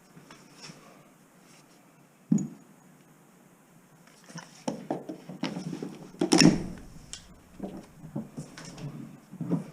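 A single sharp knock about two seconds in, then a run of clattering knocks and bangs starting about halfway through and loudest a little after six seconds: scrap and debris being handled and moved while stripping wire.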